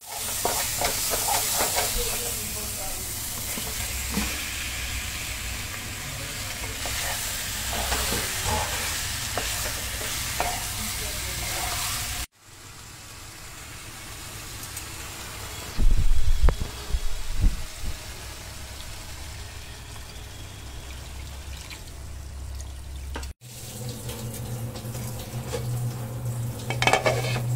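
Masala frying in a nonstick pan, sizzling as a spatula stirs and scrapes it; then quieter sizzling of chicken pieces in the masala, with a few loud low thuds about halfway. Near the end the curry gravy bubbles over a steady low hum.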